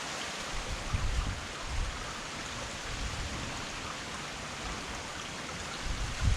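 Heavy rain falling steadily, a dense even hiss, with a few short low rumbles about a second in and again near the end.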